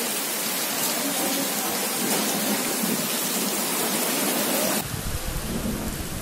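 Heavy rain pouring on a wet street, a steady hiss. Near the end it switches abruptly to a closer, deeper sound of rain splashing onto standing water.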